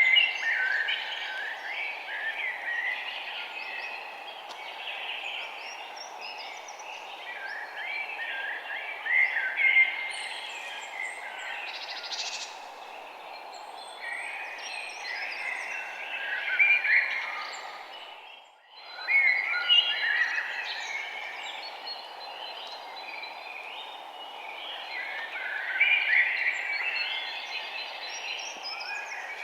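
A chorus of many songbirds chirping and calling over each other, over a steady background noise. The whole sound briefly fades out and back in about two-thirds of the way through.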